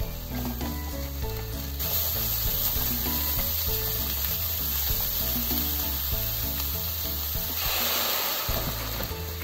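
Pork and green pepper sizzling in a hot frying pan as they are stir-fried, under background music. About eight seconds in, the sizzle flares into a louder hiss as the mixed seasoning sauce is poured into the pan.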